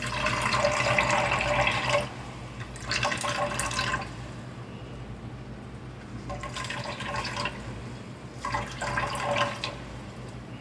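Freshly made coconut milk streaming and splashing into a bowl in four separate bursts as blended coconut is squeezed out, the first burst the longest, over a steady low hum.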